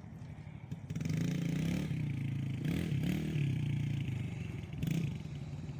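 Small petrol engine of a kid's go-kart or dirt bike running. It gets louder about a second in, and its pitch rises and falls as the throttle is worked.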